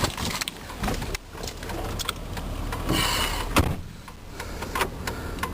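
Clicks and knocks of a pickup truck's door and latch being handled, with one louder thud about three and a half seconds in.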